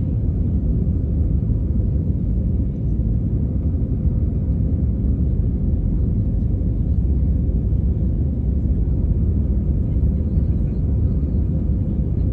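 Steady low rumble of a vehicle in motion, even and unbroken, with a faint steady hum on top.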